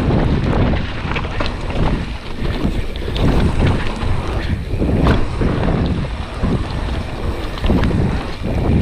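Wind buffeting the microphone during a fast mountain-bike descent, a loud low rumble that surges and dips, with the tyres rolling over a wet, leaf-covered trail and a few sharp knocks and rattles from the bike.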